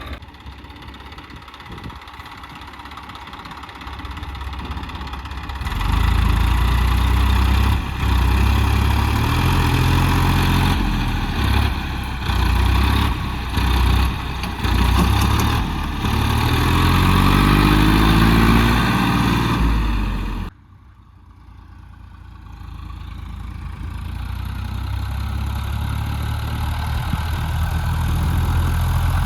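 Massey Ferguson tractor's diesel engine idling, then revved hard from about six seconds in as it strains to pull itself out with its tyres dug in, the revs rising and falling. About twenty seconds in the sound drops sharply, then builds steadily again.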